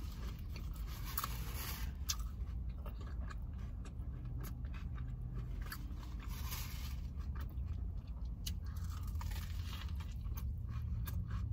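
Close-up eating of a large veggie burger: biting and chewing with wet, crunchy mouth clicks scattered throughout, over a steady low hum.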